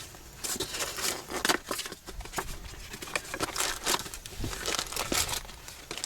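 Packaging being crinkled and torn open by hand, a run of irregular crackles and rustles. This is the wrapper of a new oil filter being opened and discarded.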